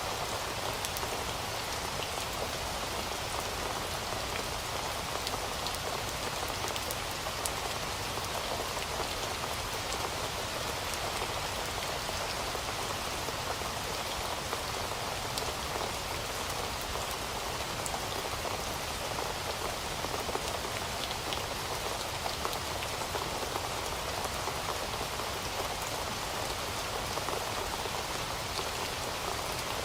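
Heavy rain falling steadily, a constant dense hiss of drops with faint scattered ticks of individual drops striking a surface.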